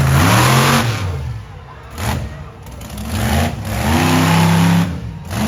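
Monster truck engine revving in bursts, its pitch sweeping up and down. There is a loud rev at the start and another about two-thirds of the way through, with the engine running lower in between.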